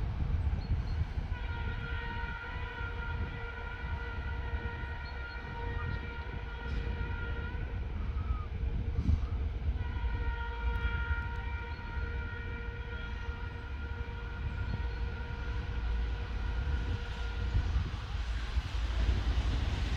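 Typhon horn of a ChME3 diesel shunting locomotive sounding two long blasts, the first about six seconds and the second about eight, over a steady low rumble.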